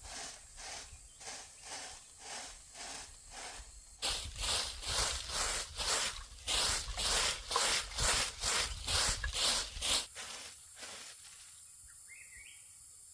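Rhythmic scraping or swishing strokes, about two a second, louder after about four seconds and stopping abruptly near ten seconds; then a short chirp near the end.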